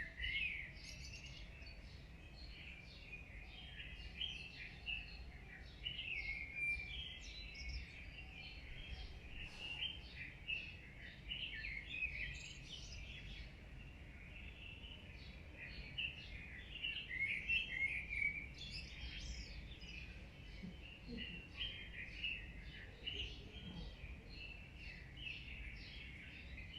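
A chorus of many small birds chirping and twittering continuously, with a faint low hum underneath.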